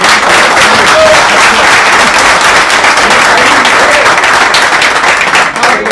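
An audience applauding: loud, dense, sustained clapping from many people.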